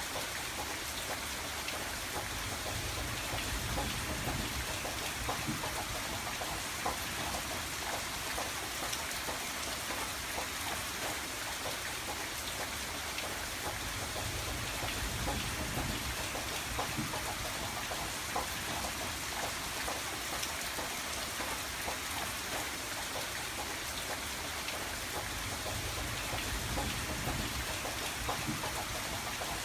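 Steady rain pattering on a window pane: a dense, even hiss of drops with many small ticks, and a low rumble that swells and fades a few times.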